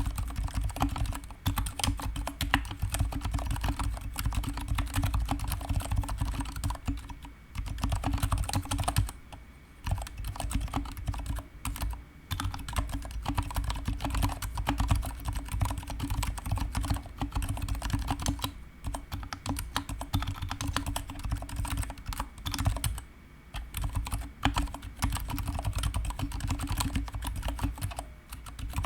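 Fast, continuous typing on a GK61 mechanical keyboard with stock, unlubricated Gateron silent brown tactile switches and PBT pudding keycaps: dense key strokes with a few short pauses.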